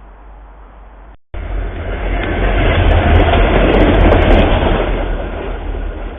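A train passing close by, its rail noise starting abruptly just after a second in, swelling to its loudest around four seconds, then easing off.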